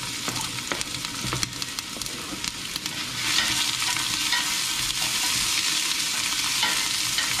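White onions and ginger sautéing in a pan, sizzling steadily while being stirred, with a few light knocks of the utensil in the first seconds. The sizzle grows louder about three seconds in.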